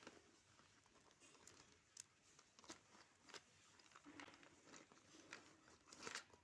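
Near silence: faint room tone with scattered soft clicks and rustles, the loudest cluster shortly before the end.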